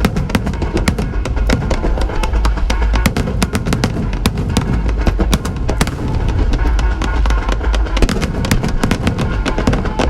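Fireworks display in full barrage: a dense, rapid string of sharp cracks and bangs over a continuous deep rumble of booms.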